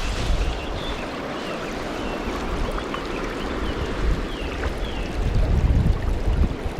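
River water rushing steadily, with a small bird giving several short chirps above it. A low rumble swells in the second half.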